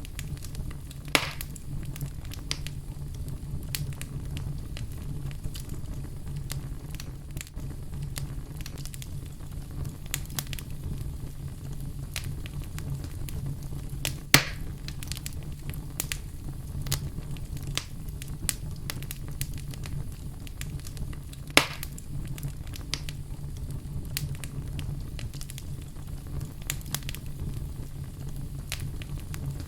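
Wood fire burning in a fireplace: a steady low rumble with constant crackling and louder pops about a second in, about 14 seconds in and about 22 seconds in.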